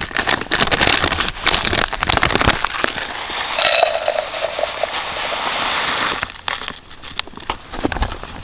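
Dense crackling and rustling with many small snaps, easing off after about six seconds, with a brief squeak a little past halfway.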